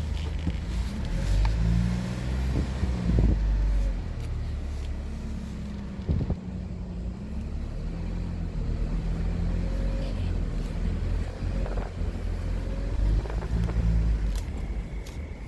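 A car driving, heard from inside: low engine and road rumble, with the engine note rising and falling several times as the car speeds up and eases off, and a few light knocks.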